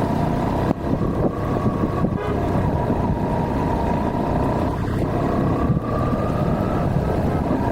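Road traffic: a steady vehicle engine and road rumble, with a faint horn-like tone about two seconds in.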